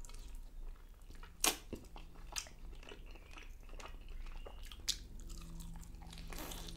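Close-miked chewing and biting on a butter chicken drumstick: wet mouth smacks and clicks, with a few sharper crunchy snaps as the meat is bitten.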